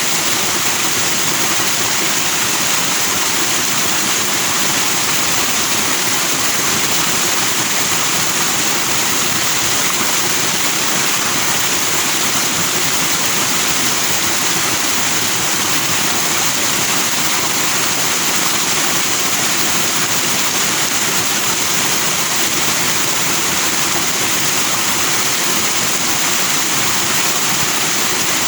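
Forest stream flowing and foaming over rocks, a loud steady rush of water that doesn't change.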